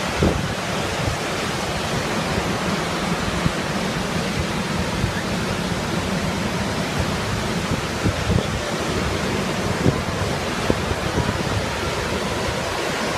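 Montmorency Falls, a large waterfall, rushing steadily.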